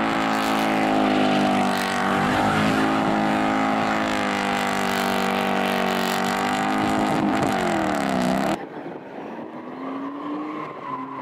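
Rally car engine running hard at high revs, its pitch holding then dipping and climbing again with throttle and gear changes. About eight and a half seconds in, the sound drops suddenly to a quieter engine further off.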